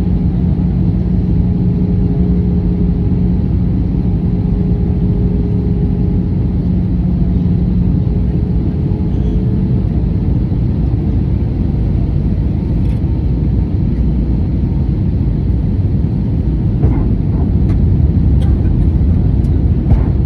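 Jet airliner's engines and rushing air rumbling steadily during the approach. A steady hum fades out about halfway through, and a few faint clicks come near the end.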